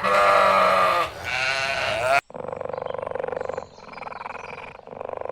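Goat bleating twice, two long wavering calls. After a sudden cut a quieter, buzzy, finely pulsing sound follows.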